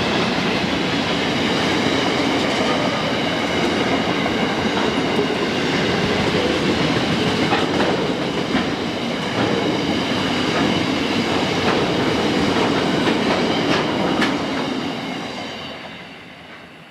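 Train wagons rolling past, wheels clicking over rail joints with a faint high squeal, the sound fading away in the last couple of seconds.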